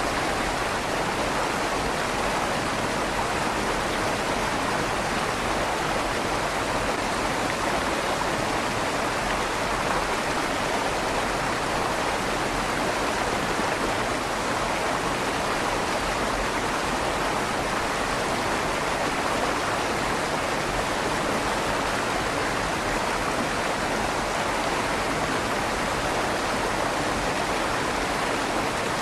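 River water flowing steadily under a stone bridge, a constant rushing with a slight echo off the tunnel walls.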